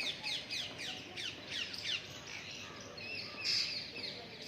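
Wild parrots calling: a rapid run of short, high, downward-sweeping squawks, about five a second, followed by more calls with a louder one a little past halfway.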